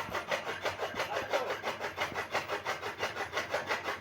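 Rapid, even back-and-forth scraping or rasping, about five strokes a second.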